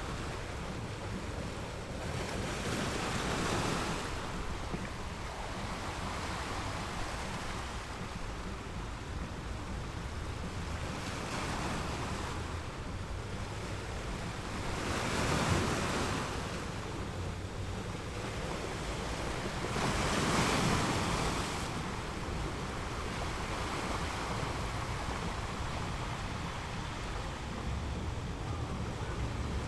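Sea waves breaking on a beach: a steady wash of surf that swells and falls back about every four to five seconds.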